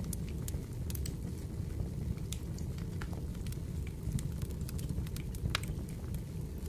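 Fireplace crackling: a steady low rumble of burning fire with irregular sharp pops and snaps.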